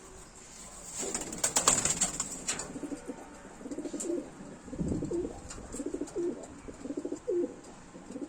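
Racing pigeon cooing, a run of low repeated coos about once a second, after a short burst of rustling clicks about a second in.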